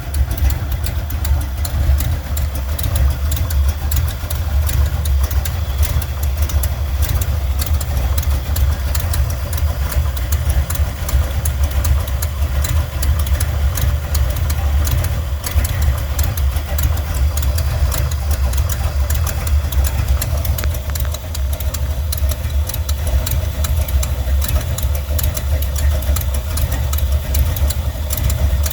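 Buick 455 Stage-1 V8 idling steadily, with a rapid, steady ticking over the low engine rumble.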